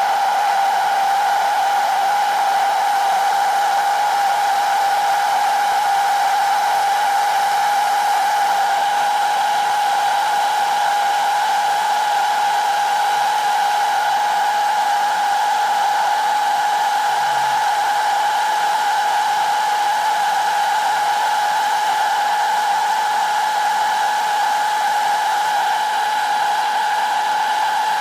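Electric power tool motor running steadily at constant speed, a loud even whine with a hiss of air above it.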